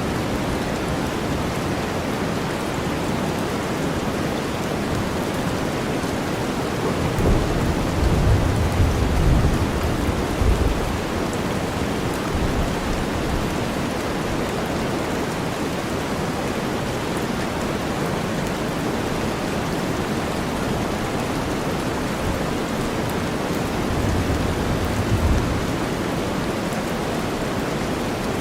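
Steady rainstorm hiss blended with deep white noise. A low rumble of thunder rolls in about seven seconds in and lasts several seconds, and a shorter rumble comes near the end.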